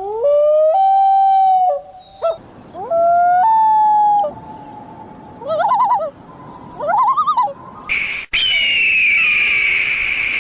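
Bird calls: two long calls that rise in pitch and then hold steady, two short wavering calls, then a harsher, screechy call starting about eight seconds in.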